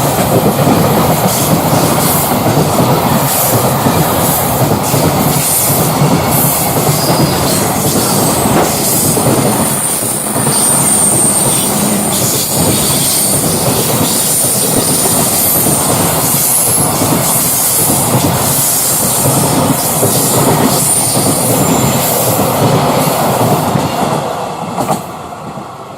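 Container freight train rolling past close by, its wheels clattering over the rail joints, with a thin high wheel squeal for a few seconds about ten seconds in. The noise falls away near the end as the tail of the train passes.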